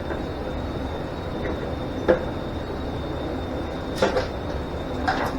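A few sharp clunks and clicks of motorcycle parts and hand tools being handled during a teardown: one about two seconds in, the loudest, a quick pair around four seconds, and another near the end, over steady shop hum with a faint high whine.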